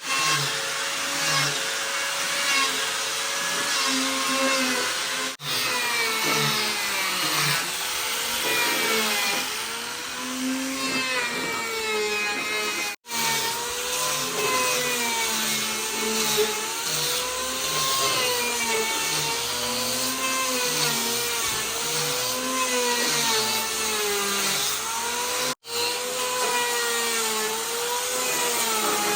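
Electric power tool working wood, its motor pitch wavering up and down as the load changes, broken by a few abrupt cuts.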